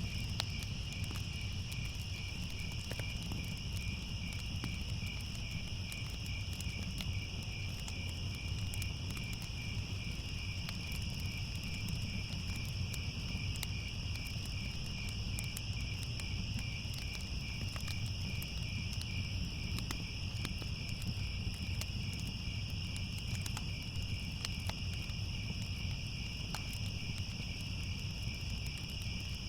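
A chorus of crickets chirping steadily in a high, evenly pulsing trill, over a low steady rumble with scattered faint crackles.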